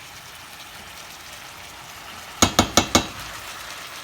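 Cube steak and onions sizzling steadily in a frying pan, with four quick sharp knocks of a utensil against the pan about two and a half seconds in.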